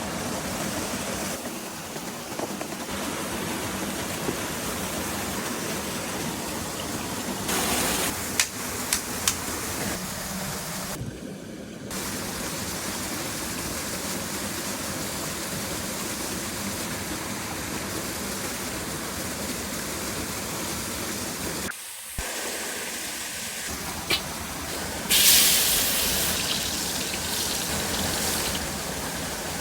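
Small waterfall and river rushing steadily, broken by abrupt changes between shots, with a few sharp knocks. A sudden loud hiss starts near the end.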